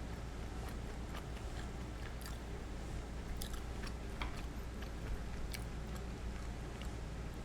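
A person chewing and biting into karaage (Japanese fried chicken), with scattered short crisp crunches at irregular times over a low steady hum.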